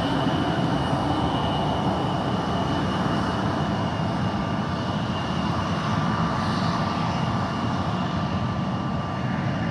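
Airliner's jet engines running at idle: a steady high whine over a constant rushing roar.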